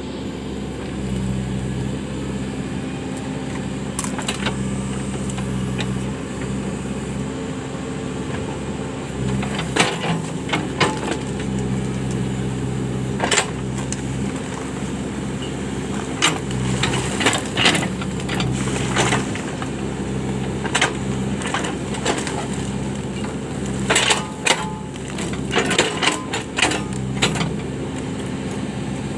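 Case 580 backhoe loader's diesel engine running steadily, with scattered sharp clanks and knocks that come in clusters in the second half.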